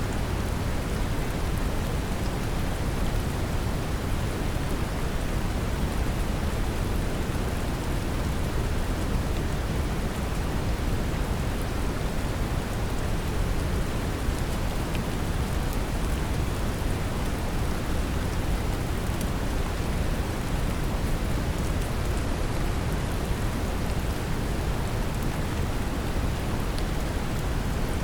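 Steady brown noise, heaviest in the low end, mixed with a gentle, even rain hiss and faint scattered drop ticks.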